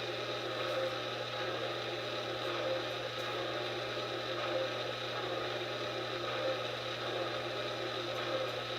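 Lionel TMCC model train locomotive running with a steady, even mechanical hum and whir.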